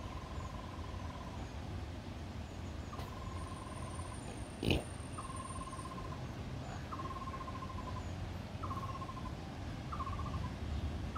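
A bird calling in a repeated series of flat, whistled notes, each about a second long at first and growing shorter and quicker toward the end, over a steady low background rumble. A single sharp knock is heard a little under halfway through.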